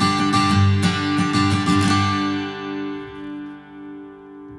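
Steel-string acoustic guitar (Taylor Builder's Edition 324ce) strummed in a steady rhythm for about two seconds. Then a final chord is left to ring and slowly die away.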